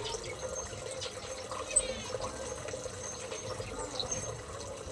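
Steady running water, with small aviary birds chirping and whistling in short high calls over it, and a brief click nearly two seconds in.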